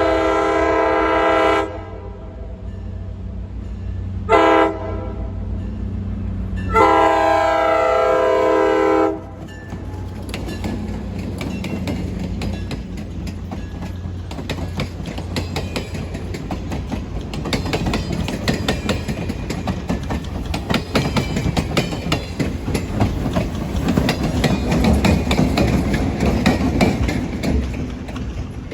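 Diesel locomotive air horn sounding a long blast, a short blast and another long blast. Then the train rolls past with a rhythmic clickety-clack of wheels over rail joints and a low rumble.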